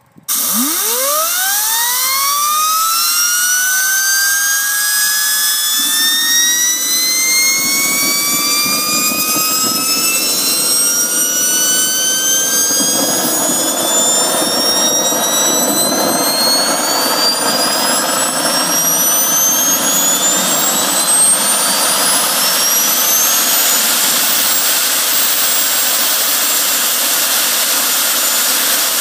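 Jet engine starting and spooling up: it comes in suddenly and loud, with a whine that climbs steeply in the first second or two, then keeps rising slowly for about twenty seconds before levelling off, over a steady rush of exhaust noise.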